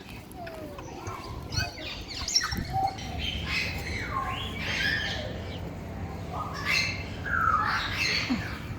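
Birds calling: harsh squawks and chirps, irregular and overlapping, over a steady low background hum.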